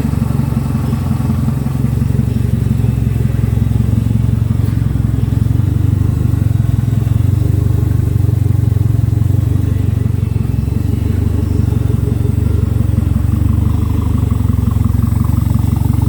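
Ford Escort RS Turbo's turbocharged 1.6-litre four-cylinder engine idling steadily.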